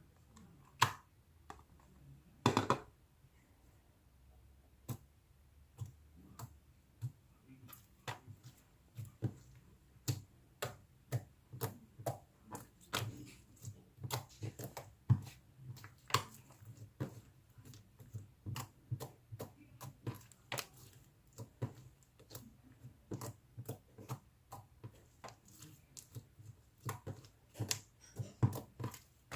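Slime being squeezed and pressed by hand, making short clicks and pops at an irregular pace of about one or two a second, with a longer crackle about two and a half seconds in.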